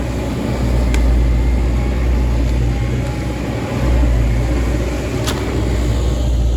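Heavy diesel machine engine running steadily with a deep low rumble, with two sharp clicks, about a second in and near the end.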